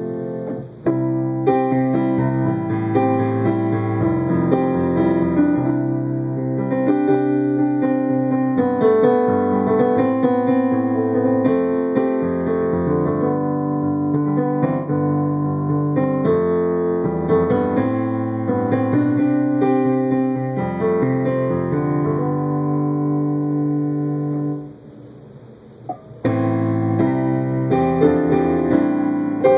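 Piano-style keyboard music: chords and melody notes played without a break, except for a brief pause about 25 seconds in before the playing resumes.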